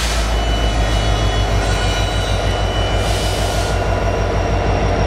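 Canadian National iron-ore train rolling past, its cars making a steady heavy rumble with thin, steady high tones of wheel squeal over it, and a brief hiss about three seconds in.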